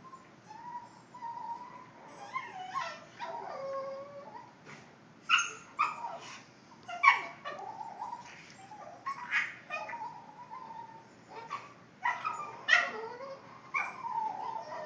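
A Boston terrier whining and 'talking': wavering whines that bend up and down in pitch, broken again and again by short, sharp yips.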